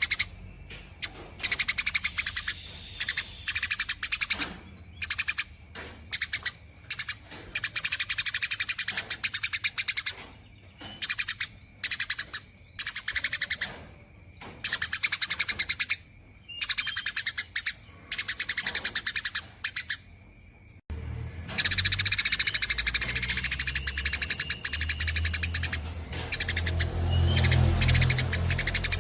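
Eurasian tree sparrow chattering in long, fast, buzzy runs of chirps: bursts of a second or two with short gaps, then unbroken chatter over the last third. A low hum runs under the chatter near the end.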